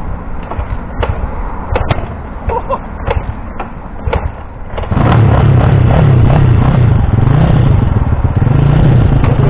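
A few clicks and knocks, then about five seconds in a Kawasaki KSR 110's small single-cylinder four-stroke engine starts and runs loudly, its speed wavering up and down.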